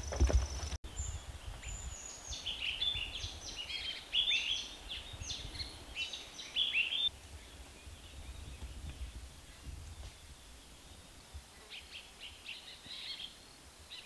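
Forest birds calling: a quick run of short, falling chirps and whistles for several seconds, then fainter chirps near the end, over a low rumble of wind. In the first second, before this, there are footsteps on a dirt track.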